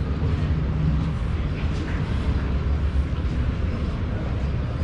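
Steady low rumble of a diesel-hauled San Martín line passenger train, heard from inside the carriage.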